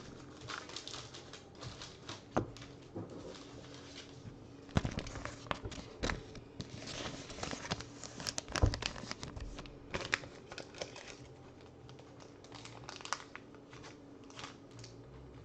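Trading cards and their plastic packaging being handled, crinkling and rustling with scattered sharp clicks and ticks, busiest in the middle. A faint steady hum runs underneath.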